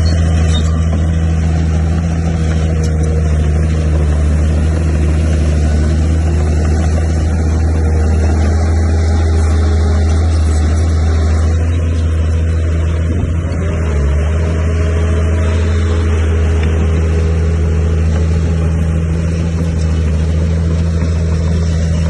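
Heavy construction-machine diesel engine running steadily under load, with a short wobble in its pitch a little past the middle.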